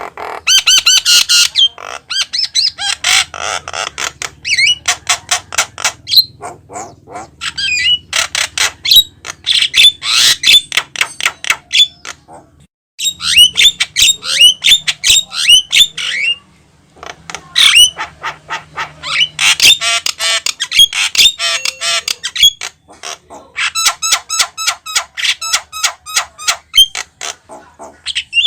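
Javan myna in full song, giving a fast, unbroken run of harsh squawks, clicks and whistled notes, with one short pause about halfway through.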